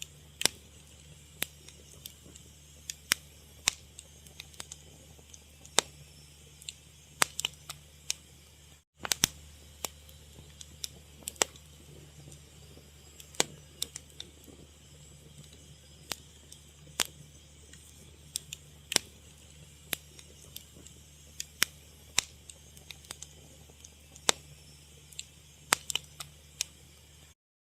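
Wood fire crackling, with irregular sharp pops and snaps over a steady low hum. The sound cuts out for an instant about nine seconds in and again near the end.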